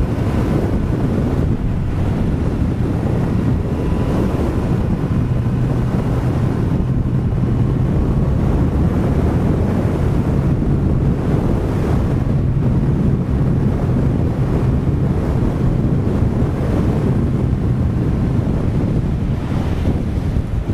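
Heavy wind buffeting on a microphone inside a motorcycle helmet while riding a Honda CBR1000RR in strong gusty wind, with the bike's inline-four engine as a steady low hum under it for most of the stretch.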